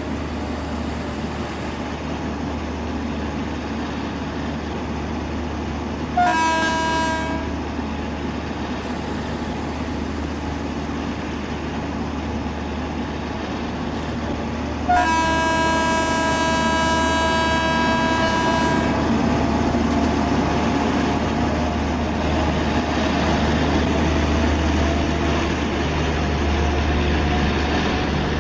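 Train running with a steady rumble, sounding its horn twice: a short blast about six seconds in and a longer one of nearly four seconds about fifteen seconds in. A faint tone rises slowly in pitch through the second half.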